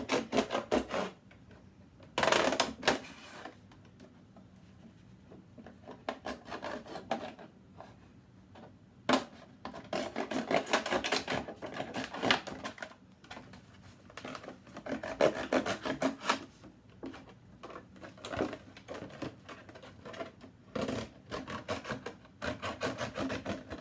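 Kitchen knife sawing and cutting through the side of a plastic gallon milk jug: irregular bursts of rapid scratching clicks with short pauses between, and one sharp click about nine seconds in.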